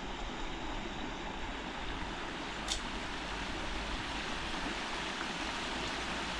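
Steady rushing of a flowing river, with a brief high-pitched tick a little before halfway through.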